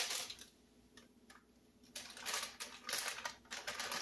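Quick clicking and rattling of frozen peas going into a skillet, with a spoon working them in. There is a short spell at the start, a quiet moment, then denser clicking from about two seconds in.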